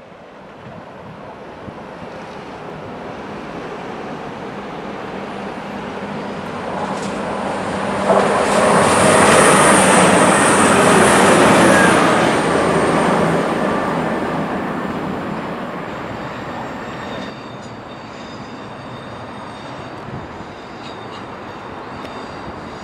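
A train passing, growing louder to a peak about eight to twelve seconds in, with a high squeal at its loudest, then fading away.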